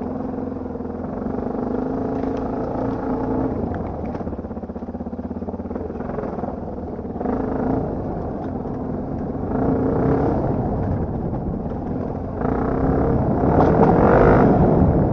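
Enduro motorcycle engine running under changing throttle while riding off-road, its pitch rising and falling, with the loudest burst of throttle near the end.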